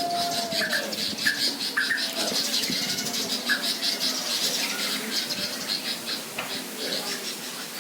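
Chorus of small wild birds chirping and twittering in a dense, continuous high chatter, with scattered short lower chirps. A steady whistle-like tone slides down and stops just under a second in.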